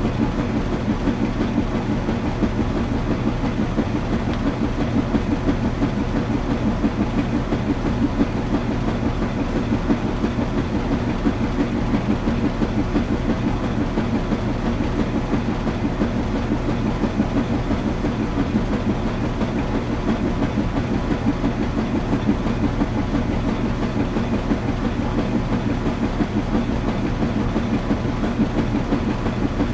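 Washing machine running: a steady low hum with a fast, even churning rumble from the turning drum.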